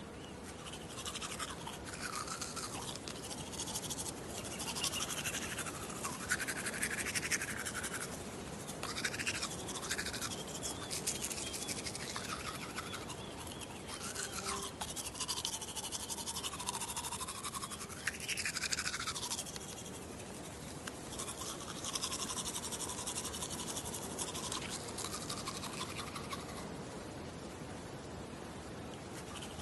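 Toothbrush scrubbing teeth in uneven strokes. A hollow tone slides up and down as the mouth changes shape.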